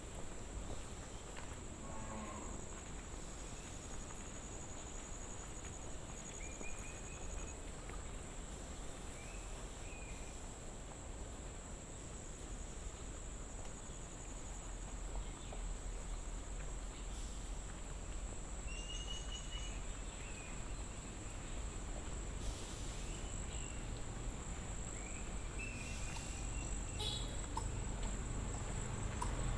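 Insects trilling in one steady high-pitched drone, with a few short bird chirps here and there over a low, rumbling background.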